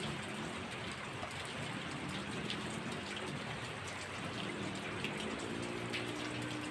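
Heavy rain falling steadily, a dense even hiss with scattered drop ticks. A faint low droning tone wavers in pitch underneath in the middle and again near the end.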